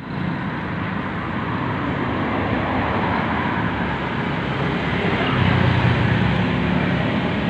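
Steady road traffic noise with a vehicle engine running, growing louder a little past halfway.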